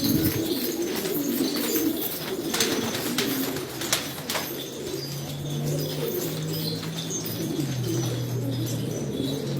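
A flock of domestic pigeons cooing, many calls overlapping, with a few sharp taps. A low steady hum starts about halfway through.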